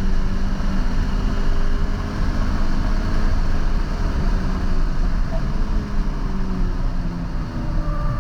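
2022 Toyota GR86's 2.4-litre flat-four engine pulling at a steady note inside the cabin on a wet track, over heavy road and tyre noise; the engine note sags slightly near the end.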